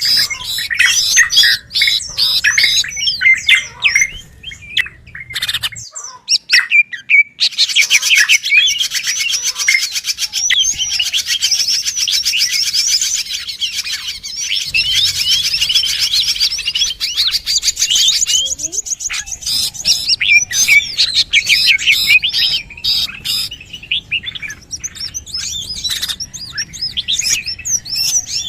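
Bird-lure recording of many small birds chirping and twittering in a dense, fast chatter. There is a brief lull about six seconds in, and the chatter is thickest through the middle.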